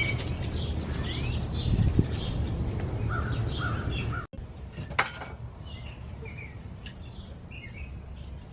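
Small birds chirping repeatedly over a low rumble; the rumble stops abruptly a little past four seconds in, leaving the chirps, and a single sharp click sounds about a second later.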